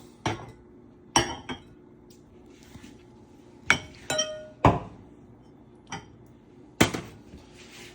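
Dishes clinking and knocking together as a bowl is taken out: about eight separate clinks, one about four seconds in ringing briefly.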